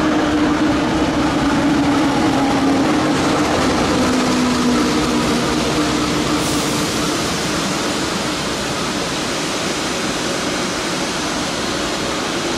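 Passenger train running: a loud, steady rumble and hiss with a low hum that eases slightly after about six seconds.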